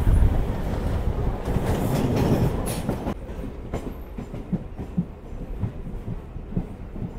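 Suburban EMU local train running, heard from its open doorway: a loud rumble of wheels on rail with clickety-clack. About three seconds in the noise drops sharply, leaving quieter running with separate wheel clicks over rail joints as the train rolls slowly along the station platform.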